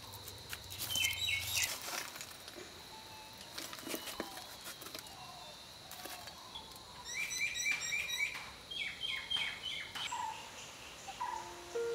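Songbirds chirping, with a fast run of repeated chirps in the middle and a few single notes, over scattered faint clicks.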